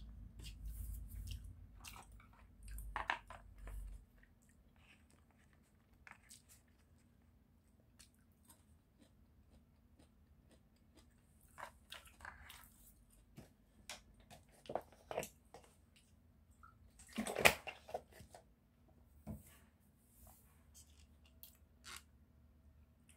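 Close-miked chewing of sushi, with moist mouth sounds and scattered sharp clicks coming and going. The loudest burst comes about 17 seconds in.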